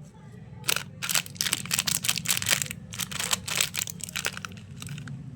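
Candy wrapper crinkling and crackling as a lollipop is unwrapped by hand, in a rapid run of sharp crackles lasting about four seconds.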